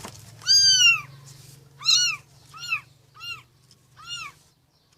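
Motherless newborn kittens mewing: five high, arching cries, the first the longest and loudest, the later ones shorter and fainter.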